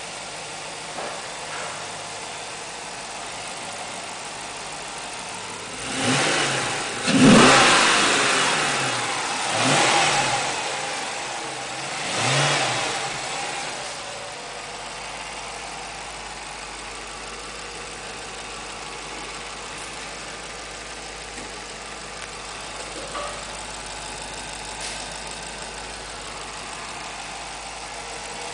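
Dodge Charger SRT8's 6.1-litre HEMI V8 idling, then blipped four times in quick succession from about six seconds in, the second rev the loudest, before settling back to a steady idle.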